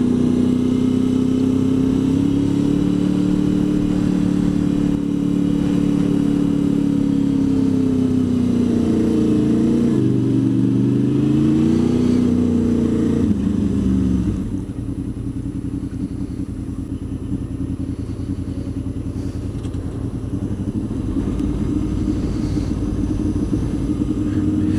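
Honda VFR800 VTEC's V4 engine running under way. Its note falls and rises a couple of times about eight to thirteen seconds in. About fourteen seconds in, it drops to a quieter, rougher note.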